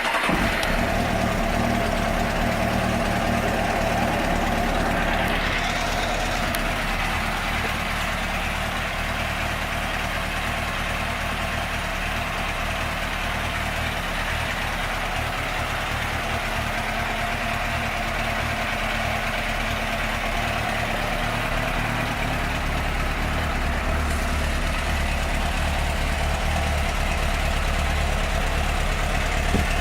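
2003 Suzuki GSX-R600's inline-four engine running at idle, just after start-up. There is a brief rising note about five seconds in, and the low hum grows fuller from about twenty-two seconds in.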